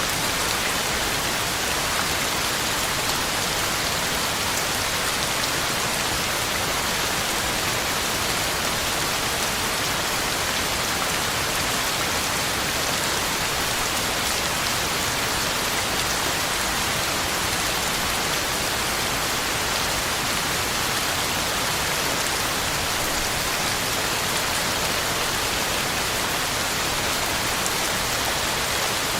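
Heavy rain falling steadily on the ground and leaves, an even hiss of many drops with no let-up.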